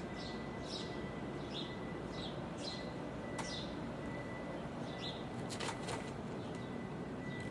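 Small birds chirping: short chirps, each sliding down in pitch, coming every half second or so, over a steady background hiss with a faint steady high whine. A few sharp clicks sound about three and six seconds in.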